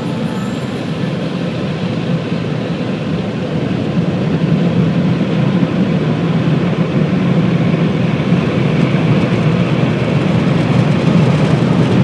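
Steady rushing noise of automatic car wash machinery, growing gradually louder.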